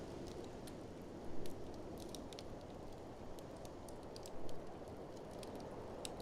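Wood fire in a fireplace crackling, with many small sharp pops and two louder ones about a second and a half and four and a half seconds in, over a steady low rush of blizzard wind.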